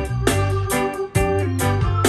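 Music played back through a pair of Audio Phonic SE2 bookshelf speakers with 5.5-inch aluminium-cone drivers: a guitar-led track with bass and a steady beat.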